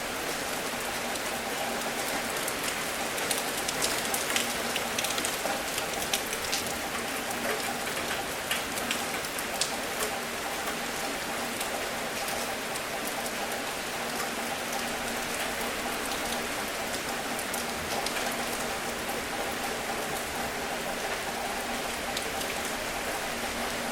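Steady rain, with individual drops ticking sharply on a surface, most thickly in the first ten seconds. A faint steady hum lies underneath.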